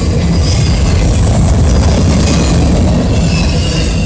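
Freight train of autorack cars rolling past close by: a loud, steady rumble of steel wheels on the rails.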